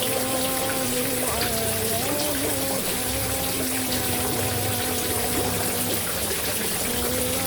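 Steady rushing water, with a voice chanting sholawat over it in long, drawn-out notes that slide between pitches.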